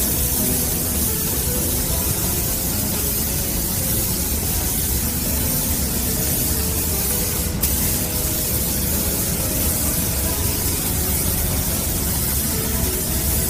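Steady, unbroken hissing air noise over a low hum, with a single sharp click about seven and a half seconds in.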